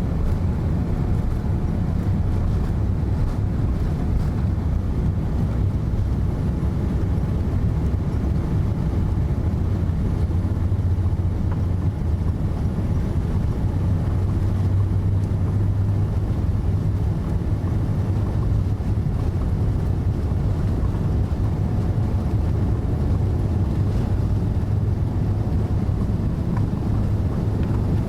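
Steady engine and airflow rumble of a Boeing 787-9 Dreamliner during takeoff, heard inside the passenger cabin. The deep drone stays even throughout.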